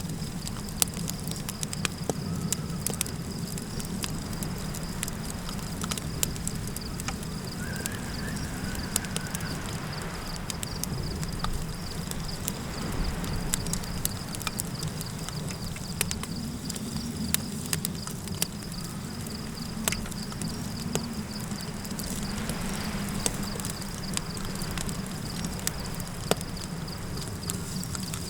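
Campfire crackling, with frequent sharp pops over a low steady rumble, and a continuous high chirring of crickets. About eight seconds in, a brief, faint wavering call rises over the fire.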